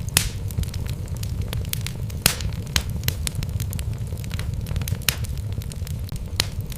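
Wood fire burning in a fireplace, logs crackling with irregular sharp pops, a few standing out louder, over a steady low rumble.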